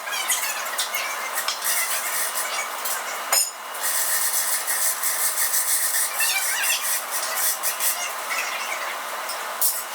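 Electric arc welding: a steady, dense crackle of the arc that breaks off briefly about a third of the way through and then starts again.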